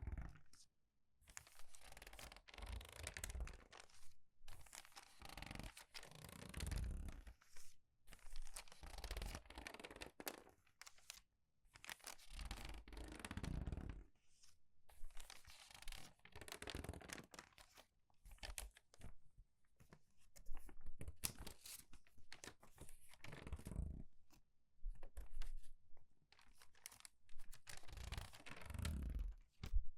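Crumpled paper pages being turned quickly and squeezed: a run of crackly rustles, one every second or two, with brief pauses between.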